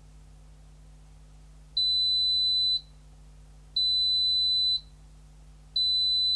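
Zanussi ZKN7120L washing machine's buzzer beeping: three long, high-pitched, steady beeps, one every two seconds, over a faint low hum.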